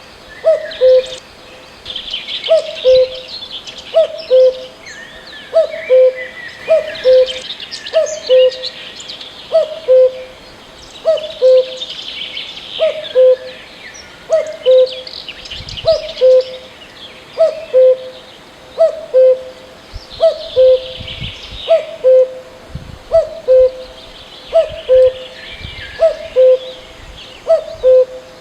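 A bird calling a short two-part hooting note over and over, about once every second and a half, over a background chorus of smaller birds chirping.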